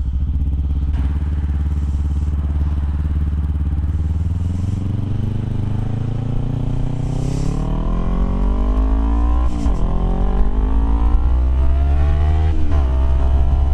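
Motorcycle engine running steadily, then accelerating with its pitch climbing, with upshifts about nine and a half and twelve and a half seconds in. Wind rumble on the microphone underneath.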